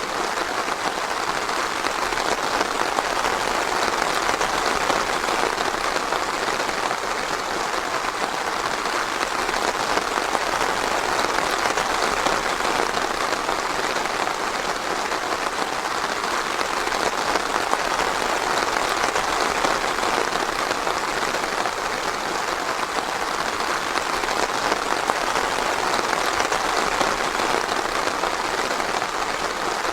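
Steady rain, an even hiss of many drops with no single drop or rumble standing out.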